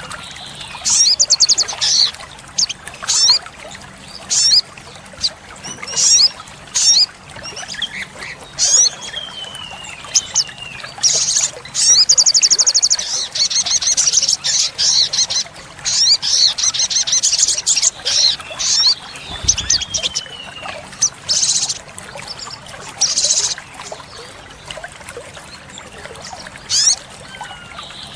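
Olive-backed sunbird singing: rapid, high-pitched trills and short sharp chips in quick bursts, with a longer run of trilling about twelve seconds in and a few falling whistled notes.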